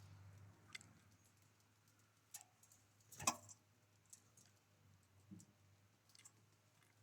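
Faint, irregular taps and clicks, one sharper and louder about three seconds in: small wild birds pecking and cracking seeds at a bird feeder.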